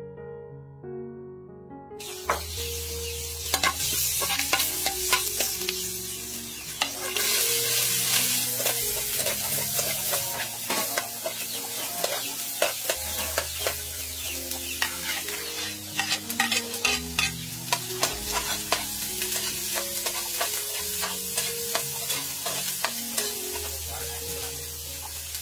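Food sizzling in hot oil in a metal wok, with a metal ladle scraping and clicking against the pan as it is stirred. The sizzling starts about two seconds in. Soft piano music plays underneath.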